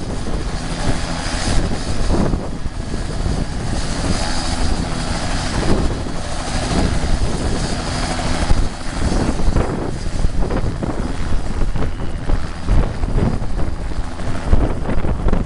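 Helicopter running, a steady, loud rotor and engine noise.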